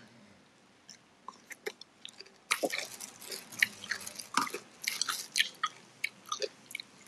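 A person chewing food close to the microphone. At first there are only a few faint clicks, then from about two and a half seconds in comes a busy run of short, sharp mouth clicks.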